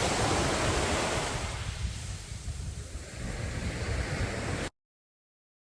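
Sea waves breaking and washing up a beach: a swell of surf early on that eases away. The sound cuts off suddenly to dead silence for about the last second.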